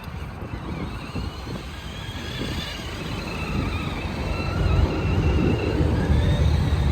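Electric motor and gear whine of an RC crawler truck driving, its pitch wavering up and down with the throttle and growing louder, over low wind rumble on the microphone.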